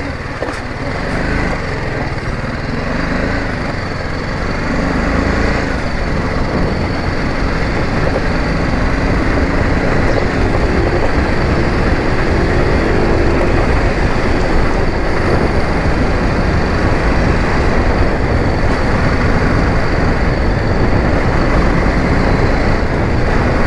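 Motorcycle being ridden on the road: engine running under a steady rush of road and wind noise, growing louder over the first several seconds as it gets under way and then holding steady.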